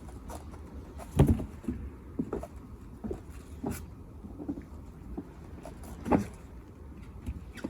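A series of irregular soft thumps and knocks over a low steady background, the loudest about a second in and again about six seconds in.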